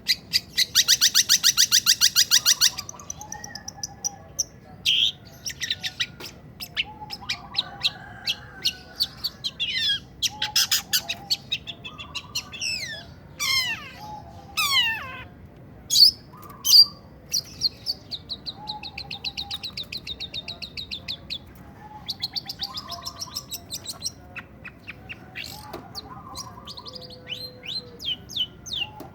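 Long-tailed shrike (cendet) in breeding condition singing a varied song of quick chirps, slurred whistles and buzzy trills. It opens with a fast, harsh rattle about two and a half seconds long.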